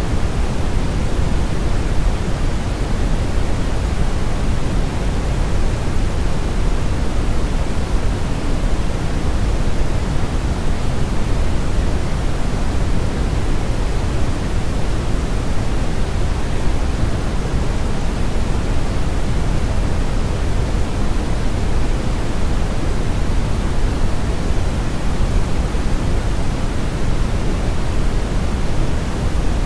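Steady brown noise: an even, unchanging rushing hiss with most of its weight in the deep low end and the highs rolled off, like a deep rumble of wind or a river.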